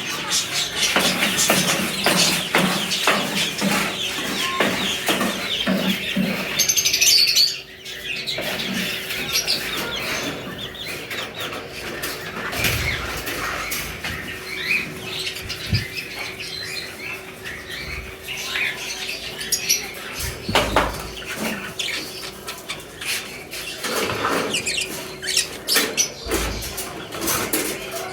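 A flock of small cage birds chirping, with wing flutters and scattered clicks and scratches from the cage.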